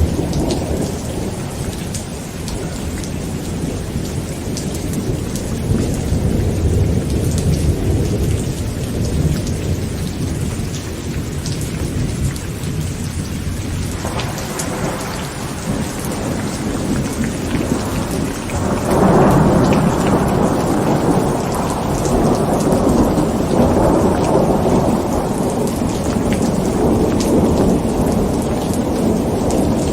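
Heavy rain drumming on a tent with continuous thunder rumbling low underneath. A louder roll of thunder swells up about two-thirds of the way through and keeps on.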